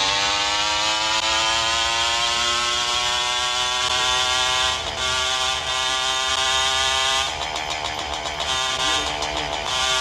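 Motorcycle engine pulling in gear, its pitch climbing steadily for about five seconds, breaking briefly near five seconds in, then holding steady, with a rush of wind throughout.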